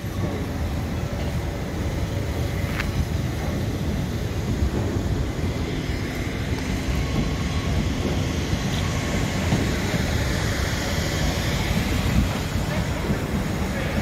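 Southeastern Class 375 Electrostar electric multiple unit pulling out along the platform: a steady rumble of wheels on rail under the train's running noise.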